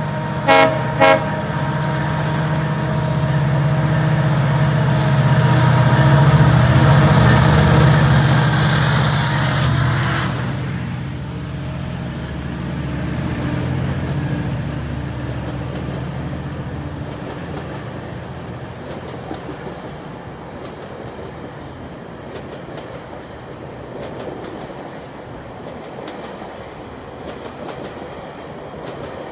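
GO Transit diesel commuter train: two short horn toots, then the engine's low rumble grows loud as the front of the train passes close by, with a hiss that cuts off sharply about ten seconds in. The coaches then roll past with a steady wheel clickety-clack that slowly fades.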